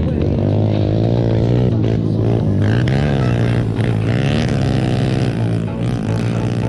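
Mini bike's small engine running, its pitch rising and falling as the throttle is opened and eased off.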